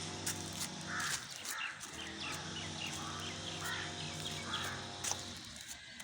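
Birds calling: a quick run of short, falling chirps with a few louder calls among them, over a steady low hum.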